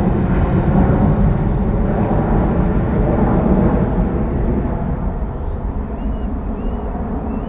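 Airbus A300's jet engines at takeoff power, a deep rumble that slowly fades as the aircraft climbs away. A few faint chirps come in near the end.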